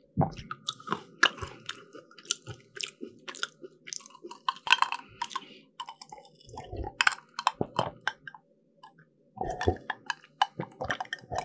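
Close-miked chewing of flaky pastry, with many irregular crisp crackles and crunches and a short pause a little past the middle.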